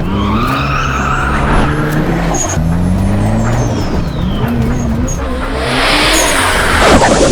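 Car engine revving, its pitch climbing and dropping repeatedly as the car is driven hard through tight turns, with a loud rush of noise near the end.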